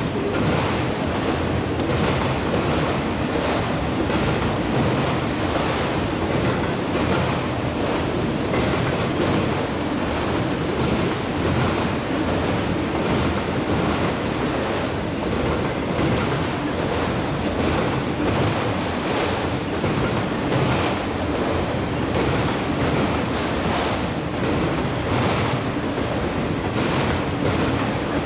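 Autorack freight cars rolling past at speed: a steady rumble and rush, with a rhythmic clatter of wheels over the rail joints.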